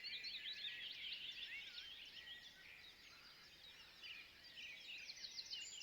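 Faint twittering of small woodland birds: many quick, high chirps overlapping, thinning out midway and picking up again near the end.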